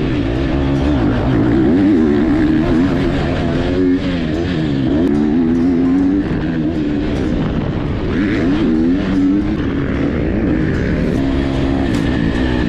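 Dirt bike engine being ridden hard, its pitch rising and falling again and again as the throttle is rolled on and off.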